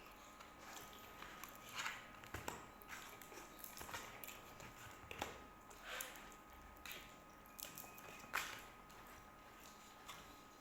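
Quiet eating sounds: chewing and handling food, heard as scattered soft clicks and smacks at irregular intervals, the loudest about eight seconds in.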